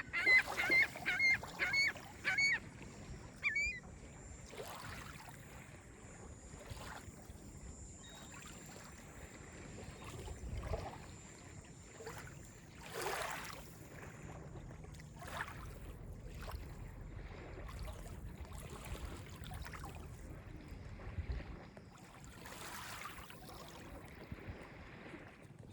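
Geese honking several times in quick succession during the first few seconds, then small calm lake waves lapping and splashing softly on the beach every few seconds.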